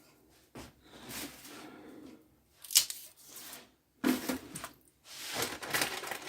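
Kitchen handling noises: a few sharp knocks and clicks with scratchy rustling, from food and containers being handled and put down.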